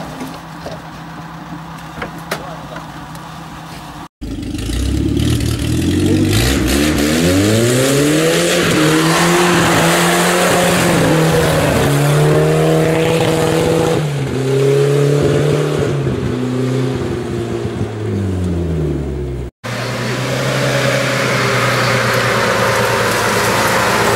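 UAZ-469 off-roader's engine worked hard on a climb: after a quieter stretch at the start, the revs rise and fall again and again for about fifteen seconds as the wheels spin and throw up wet leaves, then settle to a steadier pull near the end.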